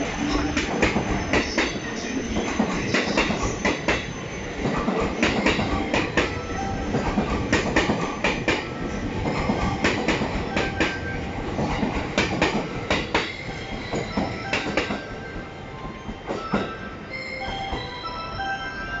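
An E257 series 2000 electric limited express train pulling out of the station and running past, its wheels clacking in quick repeated knocks over rail joints and points with a steady rumble. Over the last few seconds the clacking fades and short musical chime notes begin.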